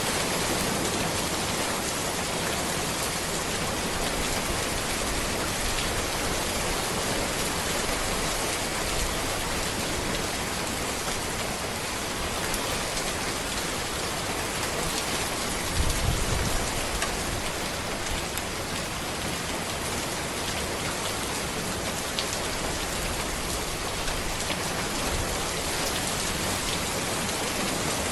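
Steady rain falling on a road and trees, an even hiss with scattered drop ticks. A brief low thump about halfway through.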